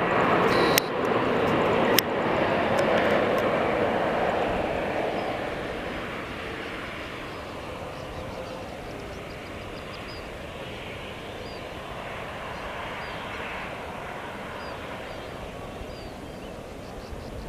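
Antonov An-124 Ruslan's four D-18T turbofan engines, loud at first and fading over about six seconds as the aircraft draws away, then a steady lower jet rumble. Two sharp clicks in the first two seconds.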